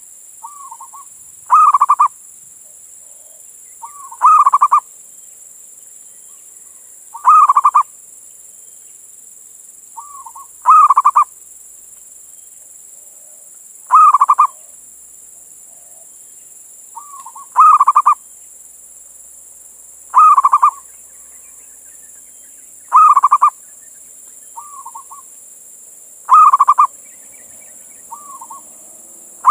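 Male zebra dove (perkutut) cooing: a loud, short cooing phrase about every three seconds, about nine times, several of them led by a softer short note.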